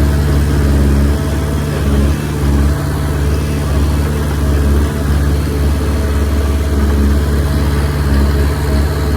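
Diesel engine of a Komatsu D20P bulldozer running at work: a loud, steady low drone that dips briefly now and then as the load changes.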